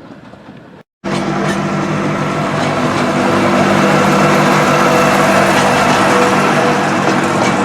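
An engine running steadily, its note a little louder over the first few seconds, beginning abruptly at a cut about a second in.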